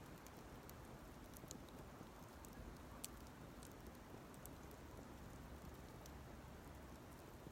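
Campfire burning faintly, with sparse small crackles and pops and one sharper pop about three seconds in.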